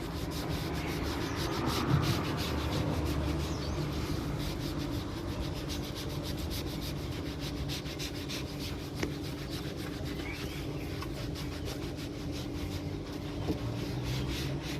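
Applicator sponge rubbing trim restorer back and forth over a weathered plastic side step, a continuous scrubbing that works the product into the plastic's pores. A steady low hum runs underneath.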